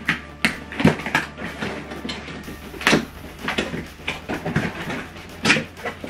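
Cardboard box and packing being handled: an irregular run of knocks, taps and scrapes.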